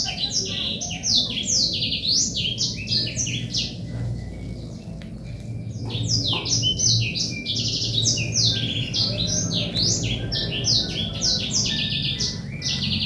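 Birds chirping in fast chattering runs of short, falling high calls, one run at the start and another from about six seconds in to near the end, over a low steady hum.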